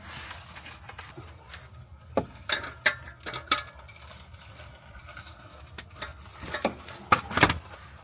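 Scattered sharp metal clinks and knocks of hand tools on exhaust hardware as a catback exhaust section is bolted up under a car. They come in two clusters, a few in the first half and a few more near the end.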